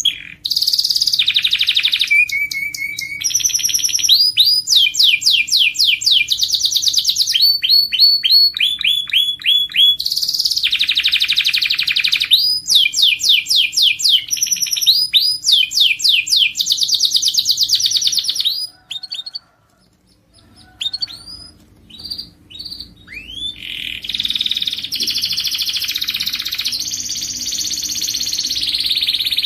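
Domestic canary singing: rapid trills and rolls of repeated notes, high-pitched, broken by a short pause about two-thirds of the way in before a denser warbling passage.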